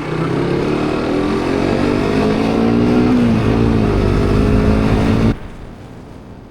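Motorbike engine running under throttle, its pitch dipping about three and a half seconds in and climbing again, then cutting off abruptly about five seconds in, leaving fainter road and wind noise.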